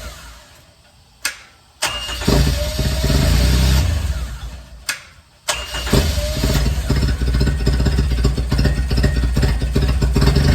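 3-cylinder gas Kubota engine being started after an oil change: it dies away, there are two sharp clicks, it cranks and fades, two more clicks follow, and about six seconds in it catches and runs steadily. The first run pumps the fresh oil into the new filter.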